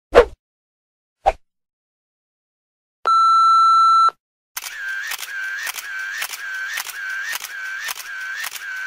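A string of separate sound effects: a short falling pop, a faint click, then a steady one-second censor-style beep. After a short gap comes a rapid repeating effect of about two clicky chirps a second, like a camera shutter firing in a burst.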